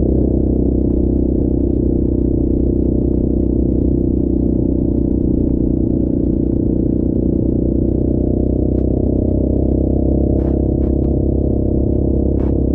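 Yamaha Grizzly 700 ATV's single-cylinder engine running at a steady pace under way, with light clatter and a few sharp ticks over it in the second half.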